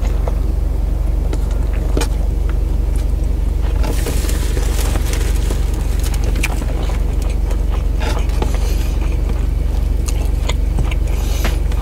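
Steady low rumble of a car engine idling, heard from inside the cabin, with scattered small clicks and smacks of eating by hand.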